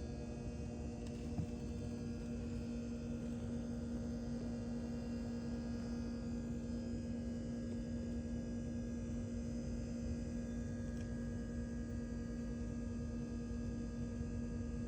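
A steady hum over a low, rumbling noise, with one faint click about a second and a half in.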